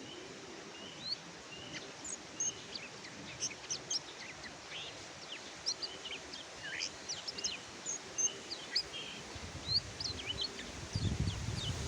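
Kecial kuning (pleci, a white-eye) singing: a rapid run of short, high chirps and twitters. A low rumbling noise comes in near the end.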